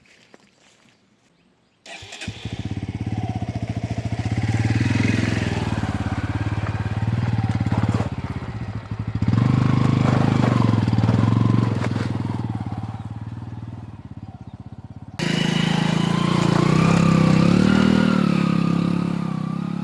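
Motorcycle engine running under load, its pitch rising and falling with the throttle. It starts abruptly about two seconds in and changes suddenly about three-quarters of the way through.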